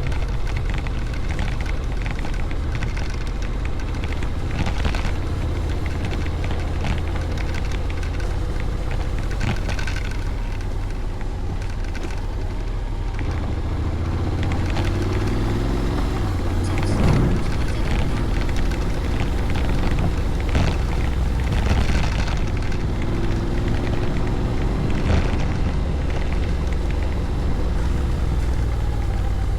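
Honda Forza 750 scooter's parallel-twin engine running while riding, with steady wind rumble; twice the engine note climbs as it accelerates.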